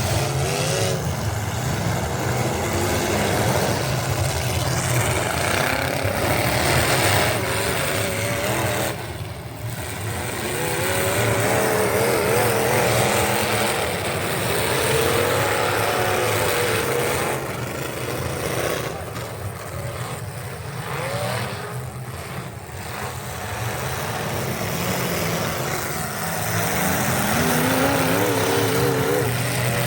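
Pro pulling truck's engine running hard at high revs, its pitch wavering up and down, easing off a little past the middle and building again near the end.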